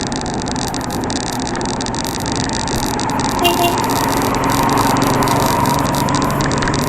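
Steady road and wind noise while riding a bicycle, with a motor vehicle's engine running alongside and growing louder from about the middle. A brief high-pitched tone sounds about three and a half seconds in.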